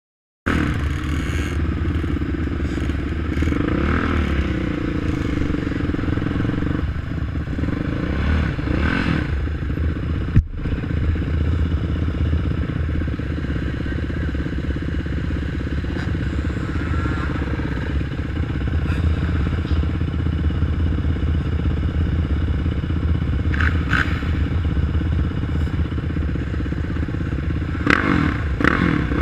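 Quad bike engines running in a race, revving up and down again several times over a steady drone. A single sharp click about ten seconds in.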